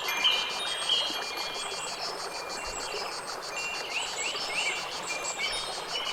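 Nature soundscape: wind chimes ringing over a steady hiss, with short rising bird chirps a few seconds in and again near the end, and a fast, even insect trill high above.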